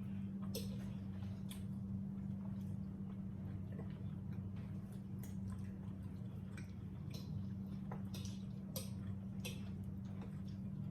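Small irregular clicks and smacks of people eating at the table, over a steady low hum.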